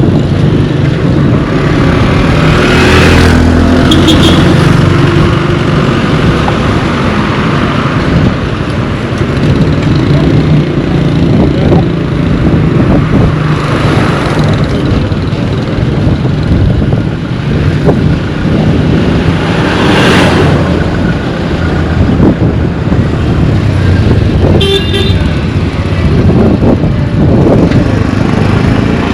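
Roadside traffic: a steady rumble of engines, with vehicles passing by now and then and a couple of short horn toots.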